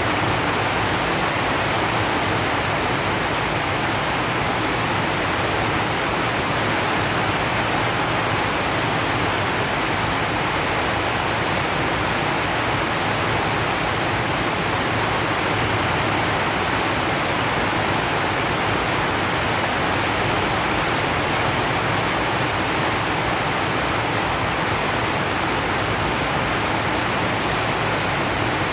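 Steady rain falling on a zinc sheet roof, an even, unbroken hiss.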